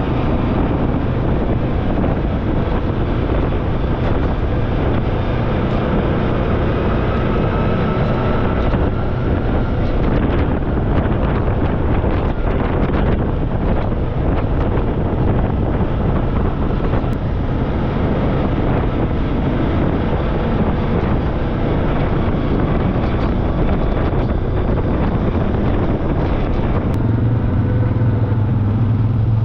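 Off-road vehicle engine running while riding, with heavy wind rushing over the microphone. Near the end the engine's low note grows stronger.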